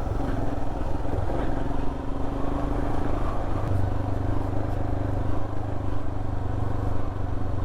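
Royal Enfield Himalayan's 411 cc single-cylinder engine running steadily under way, over road and wind noise.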